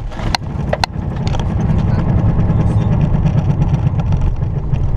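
Car driving, heard from inside the cabin: a steady low rumble of engine and road noise, with a couple of sharp clicks in the first second.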